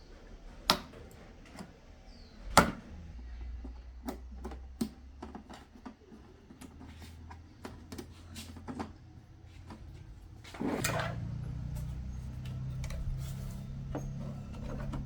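Scattered clicks and knocks of small objects being handled, two sharper ones in the first few seconds, over a low steady hum that gets louder about eleven seconds in.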